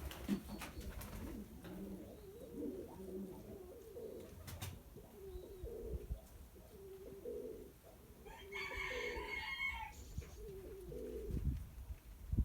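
Domestic pigeons cooing over and over in low, repeated calls. About eight and a half seconds in, a brighter, higher-pitched call sounds for about a second and a half.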